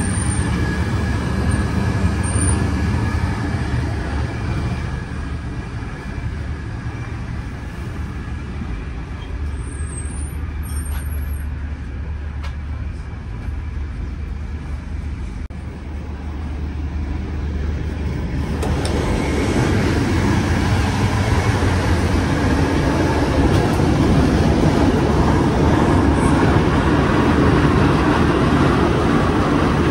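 Passenger train running on the rails, heard from inside the carriage as a steady rumble and rolling noise. It gets noticeably louder and fuller about two-thirds of the way through.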